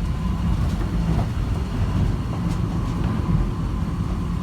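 Airport underground people-mover train running between stations, heard inside the car: a steady low rumble with a faint, steady high whine above it.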